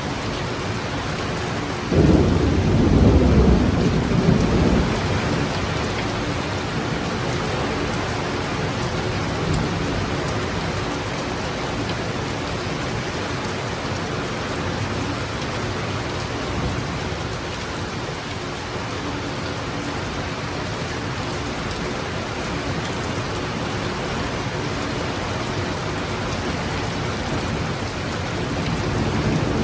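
Heavy thunderstorm: steady downpour of rain, with a sudden loud crack and rumble of thunder about two seconds in that rolls on for a few seconds and fades.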